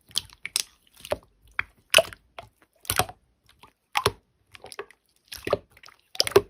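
Slime being pressed and squished by hand, giving a string of short, sharp wet pops and clicks, irregular, about one or two a second.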